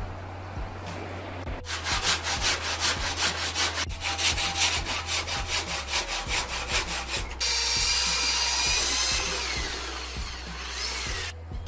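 Hand sawing with rapid, even back-and-forth strokes, about four to five a second, followed by a steady power-tool whine that runs for about four seconds and shifts in pitch near its end.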